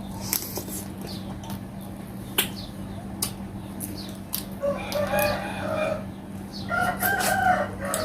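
A rooster crowing twice, each crow about a second long, over scattered sharp clicks.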